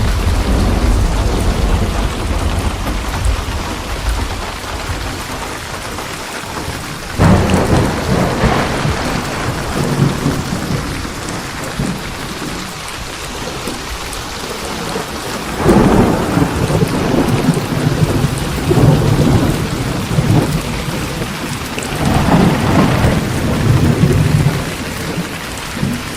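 Steady heavy rain with rolling thunder: a low rumble dies away over the first few seconds, then fresh thunderclaps break in suddenly about seven seconds in, again near the middle, and once more near the end, each rumbling for a few seconds.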